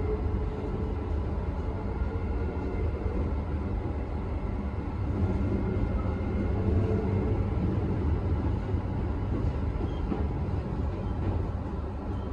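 Interior noise of a moving KTM Skypark Link electric commuter train: a steady low rumble of the wheels on the track with a faint steady whine above it, swelling a little around the middle.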